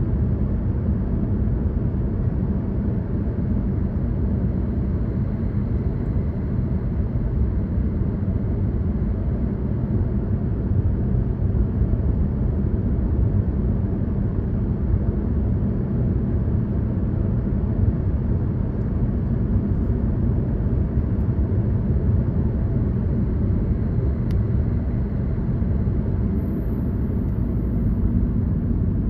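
Car driving at a steady speed, heard from inside the cabin: a constant low rumble of engine and tyre noise.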